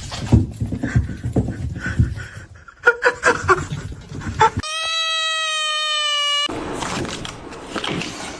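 An animal's call: short cries, then one long, steady, slightly falling call about halfway through, among knocks and rustling.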